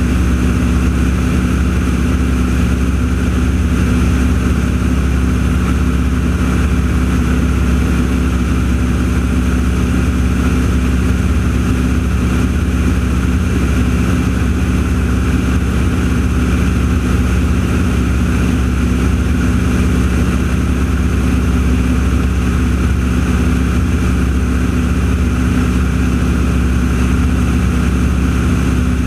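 An engine running at a steady speed: a loud, constant low drone whose pitch does not change at all.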